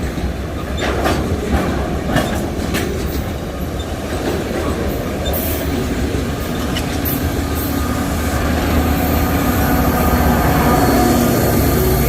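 Freight train wagons rolling past, wheels clicking over the rail joints with a steady rumble. From about halfway a steady pitched engine hum comes in and the sound slowly grows louder.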